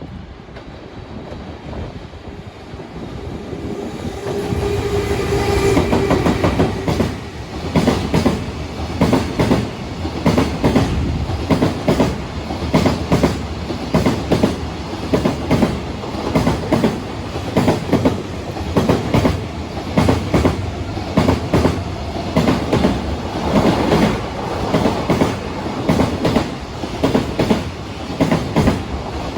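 Long freight train approaching and then passing at speed. Its wheels clatter over the rail joints in a steady rhythm for over twenty seconds.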